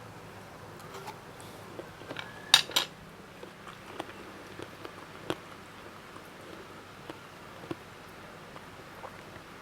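Eating utensil clinking against a plate: two sharp clinks close together about two and a half seconds in, then a few lighter scattered taps.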